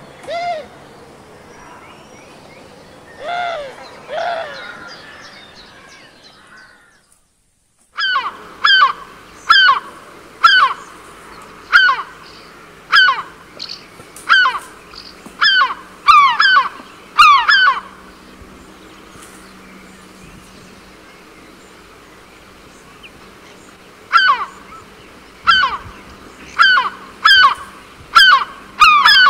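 Birds calling: a few lower calls, a second of dead silence, then two bouts of loud calls about one a second, each falling in pitch, with a pause of several seconds between the bouts.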